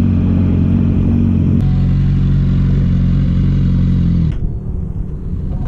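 Motorcycle engine running at a steady pace on the road. Its note changes about a second and a half in, and the engine sound falls away and gets quieter about four seconds in.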